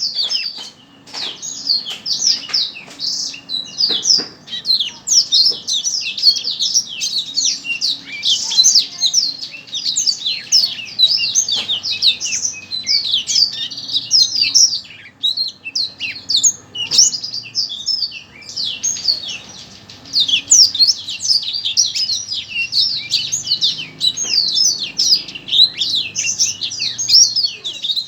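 A songbird singing a fast, unbroken stream of high chirps and short trills.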